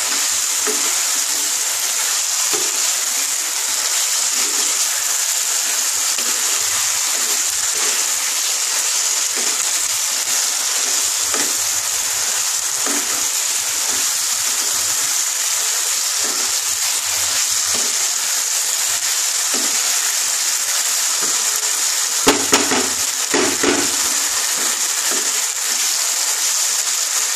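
Masala-coated cauliflower and peas sizzling steadily as they fry in a non-stick kadai, with a wooden spatula stirring and scraping through them. A few sharp knocks come about five seconds before the end.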